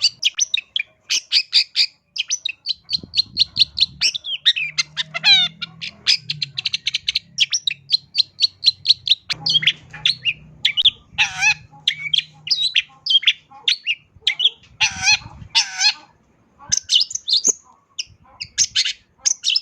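Long-tailed shrike (cendet) singing a fast, varied song of rapid chirps and trills mixed with a few louder harsh notes, full of mimicked calls of other birds.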